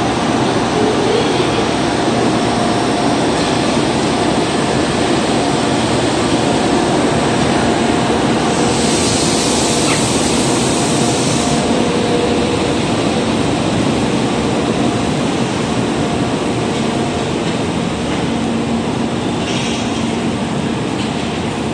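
ED76 electric locomotive and a string of empty Koki 107 container flat wagons rolling past: a steady, loud rumble of wheels on rail. A hiss comes in about nine seconds in and lasts around three seconds.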